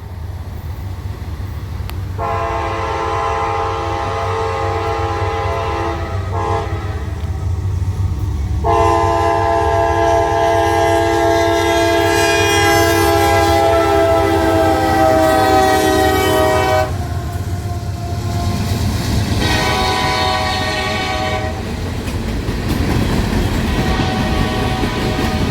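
Diesel freight locomotive air horn sounding long blasts of a multi-note chord, then a shorter one; the chord drops slightly in pitch as the locomotive passes. A low diesel rumble and rolling rail noise run underneath.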